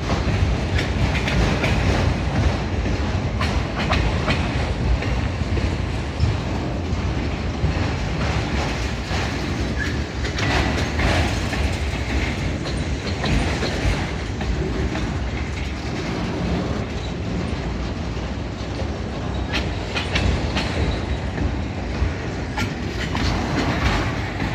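Freight cars of a long CSX train rolling past: a continuous rumble of steel wheels on the rails, with scattered short clacks.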